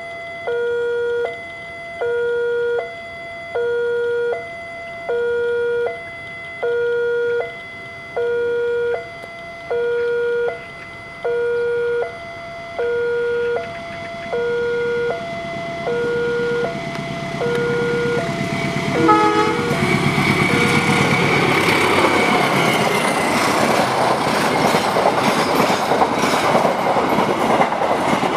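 Level-crossing warning alarm sounding a repeating two-tone chime about once a second, which stops after about eighteen seconds. A diesel-hauled passenger train then arrives with a short horn toot, and its coaches pass close by with a loud rumble and clatter of wheels on rail joints.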